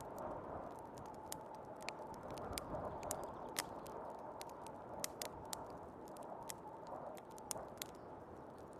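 Wood fire crackling in a fireplace, with irregular sharp pops, over the steady rush of snowstorm wind.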